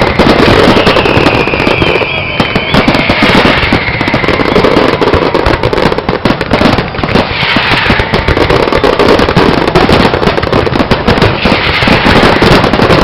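Fireworks display: a dense, continuous barrage of rapid bangs and crackles, with a few gliding whistles over it.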